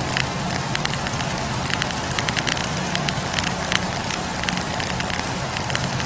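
Campfire of burning firewood crackling, with frequent irregular sharp pops and snaps over a steady rush of the flames.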